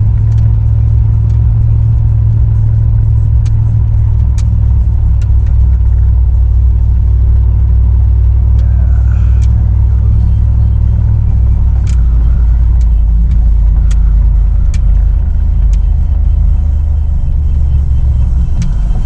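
Truck engine running steadily, a low drone with scattered light clicks; the drone drops slightly in pitch about twelve seconds in.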